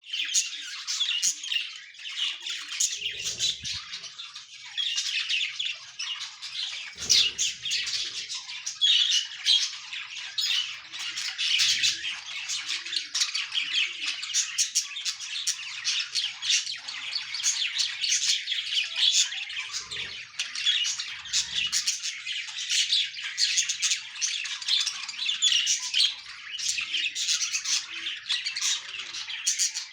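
A colony of budgerigars chattering and squawking together: a dense, continuous mass of many overlapping short calls, with a few soft low thumps.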